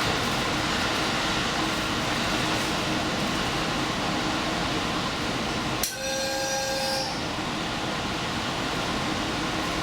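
Diesel limited-express train running along the line, a steady rolling rumble and rush of noise. About six seconds in a sharp click is followed by a short pitched tone lasting about a second.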